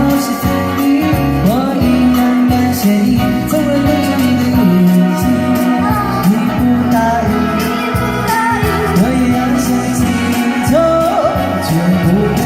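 Live singing of a Chinese pop song over instrumental accompaniment with a steady beat.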